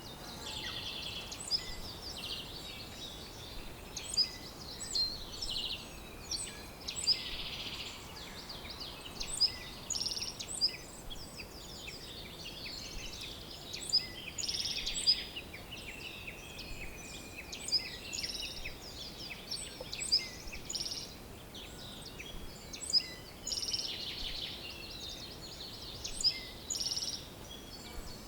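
Several wild birds singing and calling together: overlapping sharp high chirps, buzzy trills and an occasional drawn-out falling whistle, repeating throughout over a faint steady background hiss.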